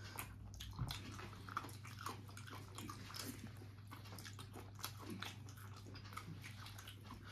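A person chewing a meat curry meal close to the microphone, with soft wet mouth smacks and small clicks coming irregularly, over a steady low hum.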